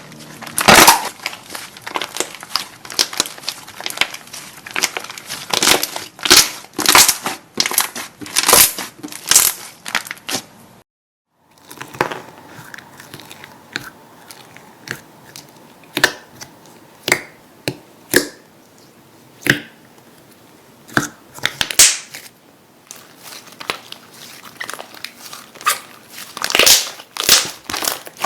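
Slime being squeezed and pressed, making a dense run of crackling clicks and pops. After a brief break about eleven seconds in, the pops come sparser, then thicken again near the end.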